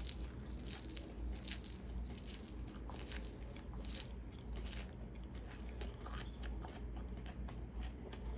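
A person chewing a mouthful of plain raw baby arugula, with a run of irregular, close crunching.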